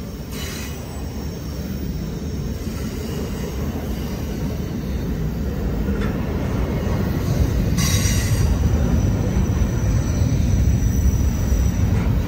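Double-stack intermodal freight train rolling past close by: a steady low rumble of steel wheels on rail that slowly grows louder. Two brief high-pitched wheel squeals come through, one just after the start and a louder one about eight seconds in.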